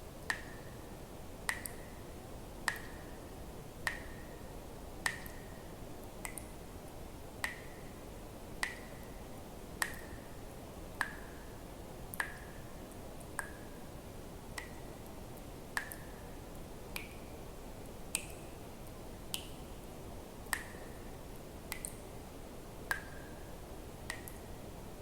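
Water drops falling one at a time into water, a regular drip about once every second and a bit. Each drop is a sharp plink with a short ringing tone, mostly at the same pitch, a few higher or sliding. A faint steady hiss lies underneath.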